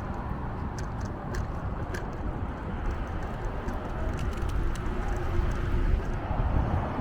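Wind buffeting the microphone and road noise during a bicycle ride, with scattered light rattling clicks.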